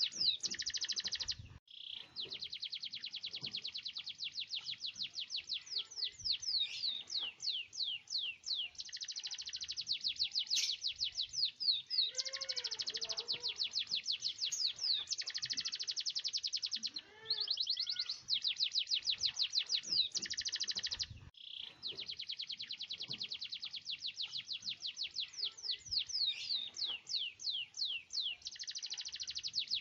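Domestic canary singing long rolling trills of rapid, high repeated notes run together, broken by brief pauses about two, seventeen and twenty-one seconds in. Some lower wavering notes come in around twelve to fourteen seconds in.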